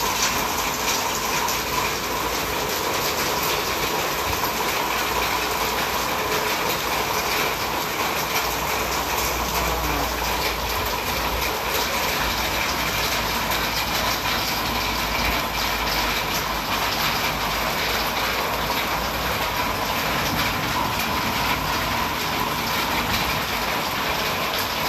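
Heavy rain pouring in a steady, dense hiss.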